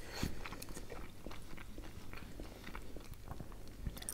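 A person chewing a mouthful of beshbarmak (soft boiled beef, flat dough noodles and onion) close to the microphone, with many small, irregular wet mouth clicks.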